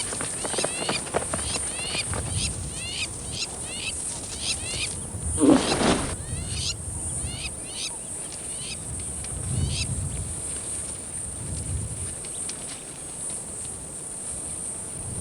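Outdoor wildlife sound: a bird repeating short rising chirps about twice a second over a steady high-pitched drone. One louder, lower animal call stands out about five and a half seconds in, with faint low rumbles now and then.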